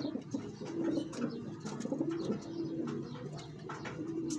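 Domestic pigeons cooing, several low rolling coos overlapping one another, with scattered light clicks.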